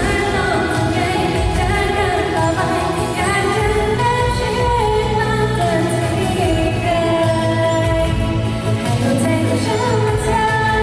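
Female vocals singing a pop song live over a backing track with a steady bass line, amplified through a PA at a sound check.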